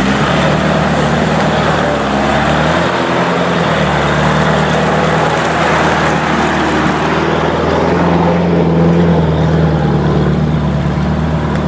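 Off-road vehicle engine running steadily under way, its low drone shifting slightly in pitch, a little louder about eight seconds in.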